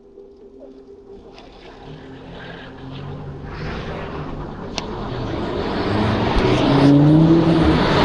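A car approaching along the road, its engine and tyre noise growing steadily louder until it is close by near the end, the engine pitch rising in the last couple of seconds.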